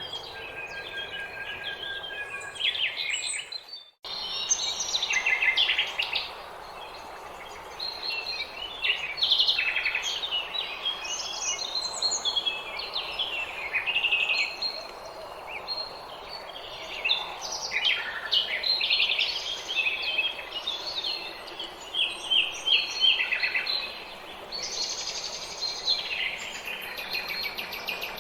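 Several small songbirds singing together in a dawn chorus: rapid overlapping chirps and trilled phrases over a faint steady background hiss, with a momentary break in the sound about four seconds in.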